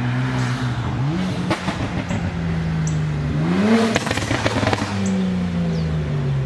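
Tuned BMW with an aftermarket downpipe driving up: the engine revs up twice, with a few sharp exhaust pops, then its pitch falls steadily as the car slows.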